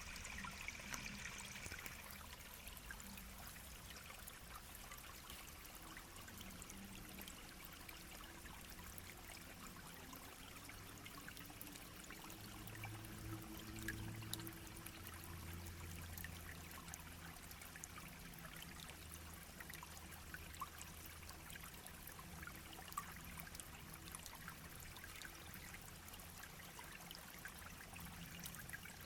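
Shallow brook babbling and trickling steadily, with many small splashes and drips. A faint low hum comes and goes in the middle.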